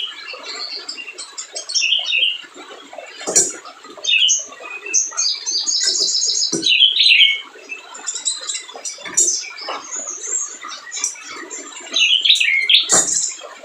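Little spiderhunter (sogok ontong) singing energetically: a busy string of sharp, high chirps and quick trills, with a fast run of repeated notes about halfway through.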